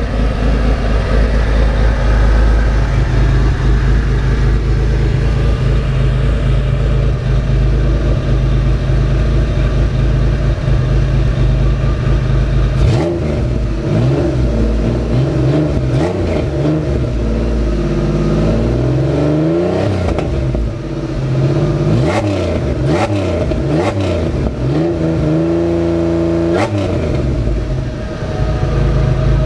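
Pontiac Fiero engine running through a new Flowmaster exhaust, idling steadily, then revved over and over from about halfway through, the pitch rising and falling with each blip. A few sharp clicks come among the revs.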